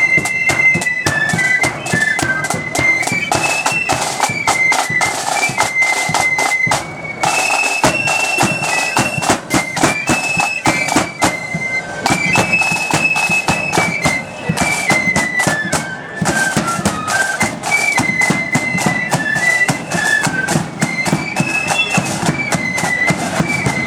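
Marching flute band playing: a high, shrill flute melody moving note by note over steady, rapid drumming.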